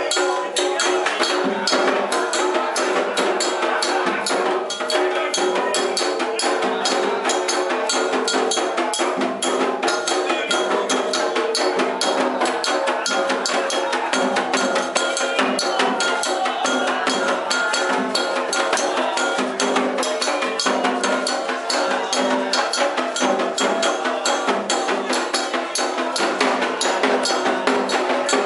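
Candomblé ritual percussion: drums and a struck bell or block playing a fast, dense, unbroken rhythm.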